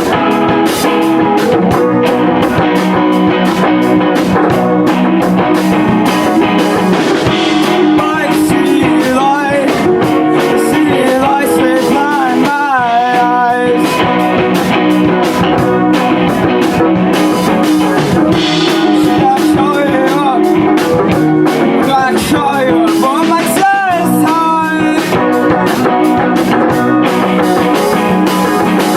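Live rock band playing: electric guitar over a steady drum kit beat, with a wavering, bending lead line through the middle and again later.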